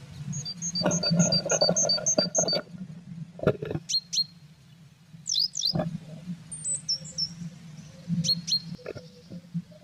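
Blue tit calls at the nest box: a quick run of about eight high chirps, about four a second, over the first couple of seconds, then scattered single high notes. Rustling in the nest and a couple of sharp knocks against the box are mixed in, over a steady low hum.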